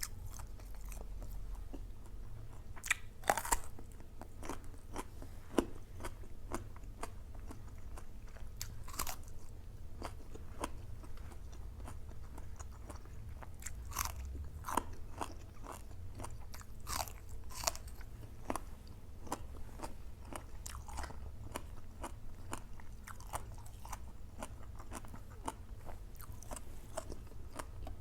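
A person chewing and biting crunchy food close to the microphone, with irregular crisp crunches and clicks, over a low steady hum.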